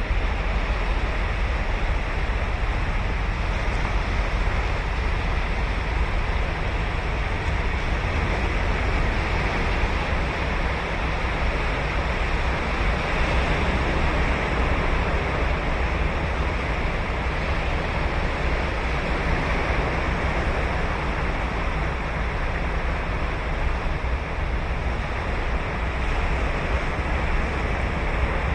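Ocean surf breaking and washing up a sandy beach on Sagami Bay: a steady, continuous wash of waves.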